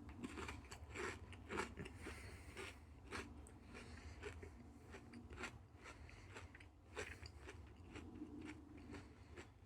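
Close-up crunching and chewing of a crunchy granola square with a peanut butter chocolate coating: a run of irregular, sharp crunches, faint overall.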